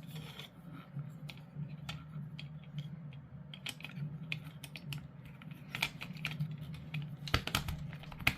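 Plastic model-kit parts clicking and tapping as they are handled and pushed into place: irregular light clicks, with a few sharper snaps near the end, over a low steady hum.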